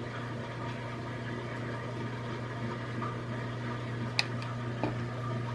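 Hair dryer running steadily on its warm setting, blowing acrylic paint across a canvas. Two small clicks come about four seconds in.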